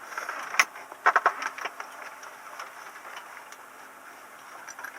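Scattered clicks and knocks of switches and controls being handled in a Cessna 172 cockpit before engine start: a sharp click about half a second in, then a quick cluster of clicks just after one second, over a faint steady hum.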